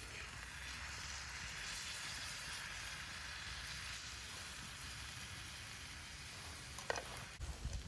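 Beef searing in a pan over a campfire: a steady sizzle, with a sharp click about seven seconds in.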